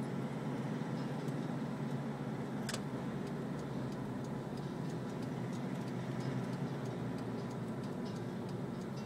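Steady engine and road noise of a vehicle on the move, with a sharp click about three seconds in and faint, regular ticking after it.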